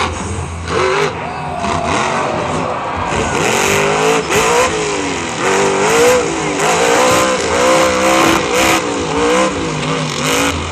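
Monster truck engine revving hard, its pitch rising and falling again and again as the throttle is worked, getting quicker and more regular in the second half.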